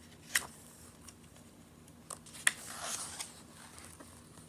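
Picture-book pages being handled and turned: a few sharp clicks, then a short papery rustle about two and a half seconds in.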